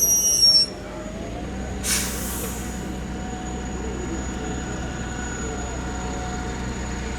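A large vehicle's brakes squeal high and cut off suddenly within the first second. About two seconds in there is a short hiss of released air, and then a steady idling hum.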